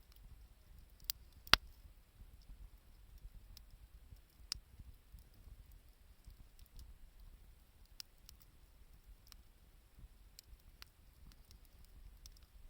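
Wood fire crackling: scattered sharp pops at irregular intervals, the loudest about a second and a half in, over a faint low rumble.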